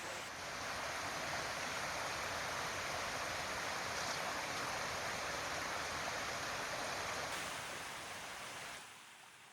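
Steady rushing of flowing water, which fades late on and drops away about nine seconds in.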